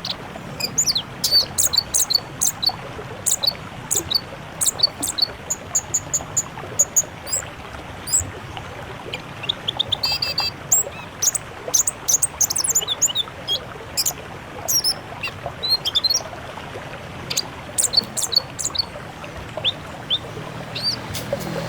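Songbirds singing: a rapid string of short, sharp, high-pitched chirps and trills, over a steady background hiss.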